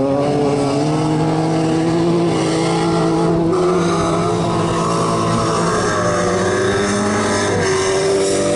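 Several racing car engines running hard together in an autocross race, their pitch rising and shifting as they accelerate and change gear.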